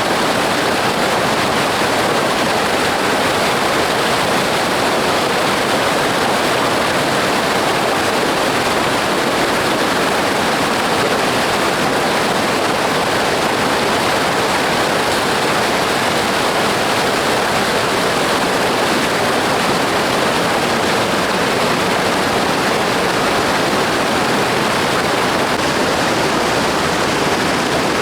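River water rushing steadily: a loud, even roar of flowing water.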